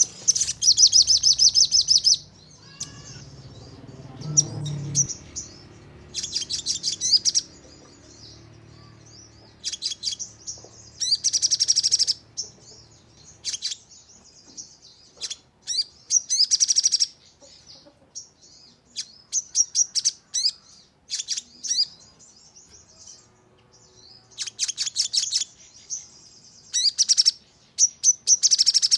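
Sogon bird singing in its rapid-fire 'nembak' style: dense bursts of fast, high-pitched trilled notes, each lasting a second or so and repeated every few seconds, with scattered short chirps in between.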